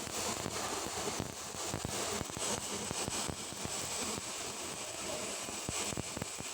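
Stick (SMAW) welding arc on carbon steel pipe, a steady crackling sizzle with many small pops throughout.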